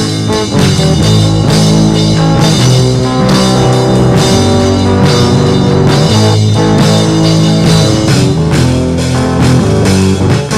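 Instrumental rock music: electric guitars and bass over a steady drum-kit beat.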